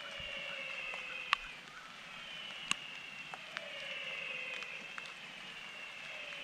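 Chorus of animal calls over a steady background hiss: long, slowly falling notes overlap and repeat every two seconds or so, with a few sharp clicks or drips.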